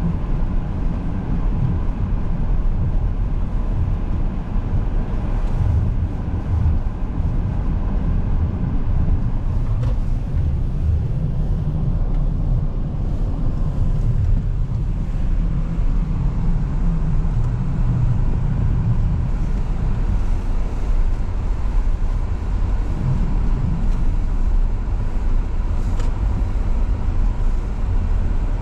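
Steady low rumble of a car driving, engine and road noise, with no sudden events.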